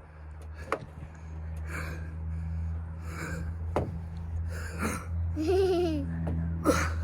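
Heavy, rhythmic breathing of a man straining to push a truck, with a gasping breath about every second and a half, over a steady low hum. Near the end comes one short voiced groan that rises and falls in pitch.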